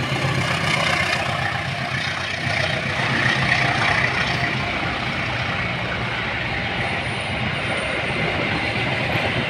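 Diesel-hauled passenger train passing close by: the locomotive's engine rumble fades over the first couple of seconds. Then a steady rush of wheels on rail follows as the coaches roll past.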